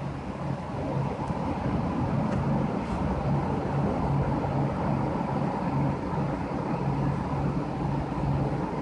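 Wind of an approaching severe thunderstorm front: a steady low rumble of gusts on the microphone that swells slightly about a second in.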